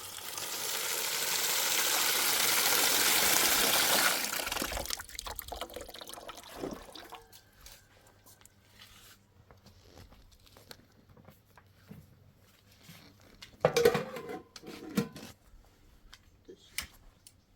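Water pouring or gushing for about four and a half seconds, then stopping. Scattered small knocks follow, with a louder clatter about fourteen seconds in.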